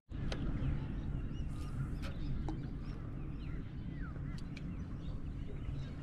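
Birds calling, scattered short chirps and squawks throughout, over a low steady rumble.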